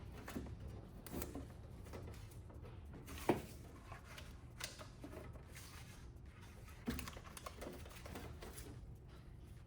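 Faint handling noises of hands working on a van door panel: scattered light clicks and rustling, with a sharper knock about three seconds in and another near seven seconds.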